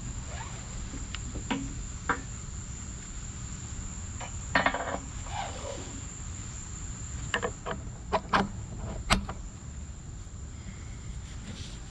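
Scattered short metallic clicks and knocks over a steady low rumble and a steady high insect drone, with the clicks bunched about four seconds in and again between seven and nine seconds.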